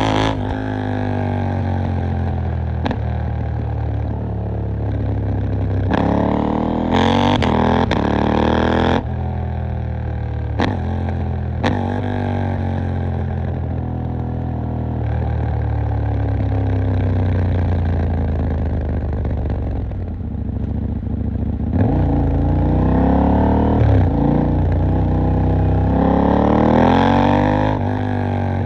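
KTM 890 Duke R's parallel-twin engine riding in town, with several pulls where the engine note rises through the revs and breaks off at gear changes, and a steadier, lower-revving stretch in the middle. A few sharp cracks sound in the first half.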